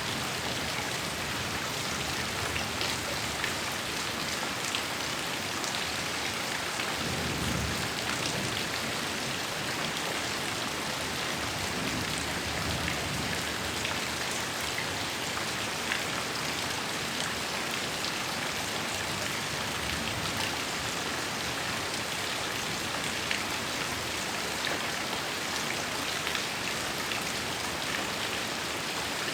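Heavy rain falling steadily, with many fine drop ticks on a surface. Low rumbles of thunder swell up about seven seconds in and again around twelve seconds.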